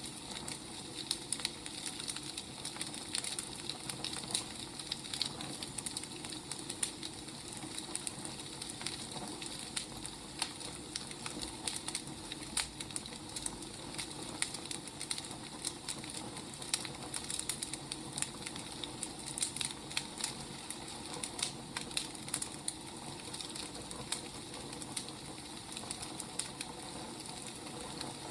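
Wood fire crackling: a steady hiss with frequent, irregular sharp pops and snaps.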